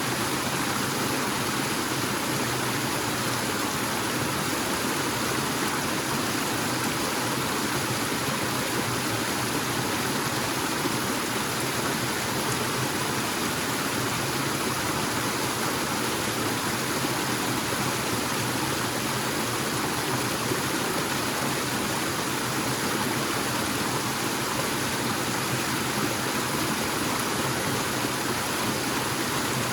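Forest waterfall: water falling and rushing steadily.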